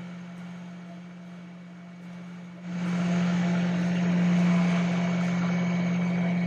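Steady drone of a sailing boat's engine. About three seconds in it gets louder and a broad rushing noise joins it.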